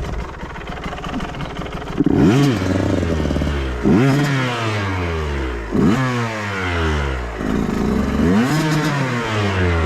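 Dirt bike engine revved in four sharp throttle blips, each jumping up in pitch and sinking back toward idle over about a second.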